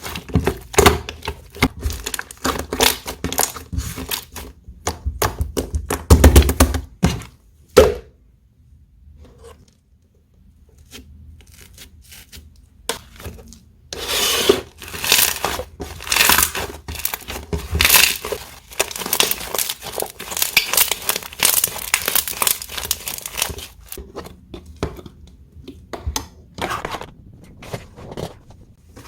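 Slime being squished, pressed and stretched by hand, giving dense sticky crackling and popping. A quieter lull comes about a third of the way in, then the crackling picks up again.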